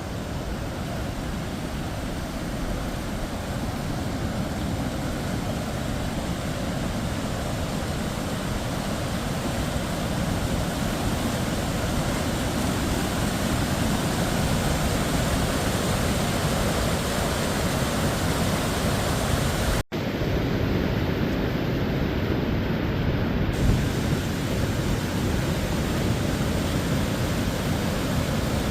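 Waterfall rushing: a steady, even wash of falling water with no lulls.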